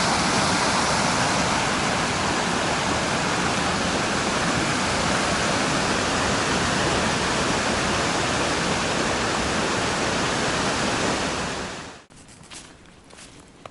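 Loud, steady rushing noise, even across low and high pitches, that drops away about twelve seconds in, leaving a few soft knocks like steps.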